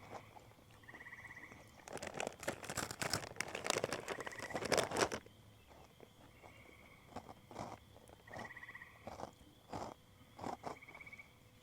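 Dusk nature sounds: crickets giving a faint steady high trill, and short trills at one pitch repeating every couple of seconds. From about two seconds in, some three seconds of loud crunching and rustling close by.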